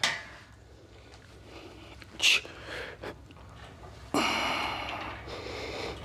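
A man breathing hard while lifting: a short sharp breath about two seconds in, then a long forceful exhale from about four seconds in.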